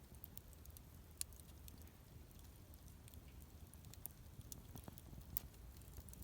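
Wood campfire burning quietly, crackling with scattered small ticks and pops, a sharper pop about a second in.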